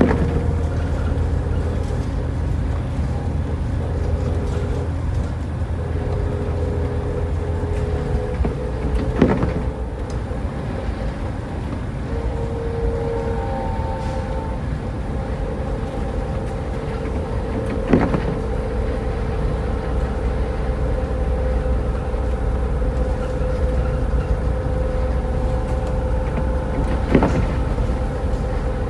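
A car driving through a snowstorm: a steady low rumble of road and engine noise with a faint hum. Three short knocks come about nine seconds apart.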